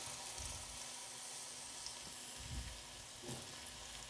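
Large chunks of potato frying in hot oil in a kadhai, just put in: a steady, even sizzle of bubbling oil.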